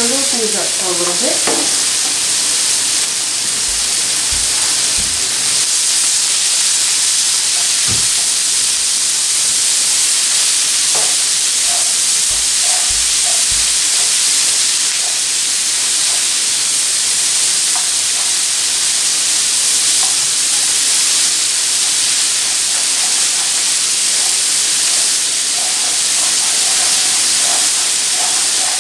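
Onions, bell peppers and mushrooms sizzling in an oiled skillet, a steady frying hiss, while a spatula stirs them with a few light knocks against the pan.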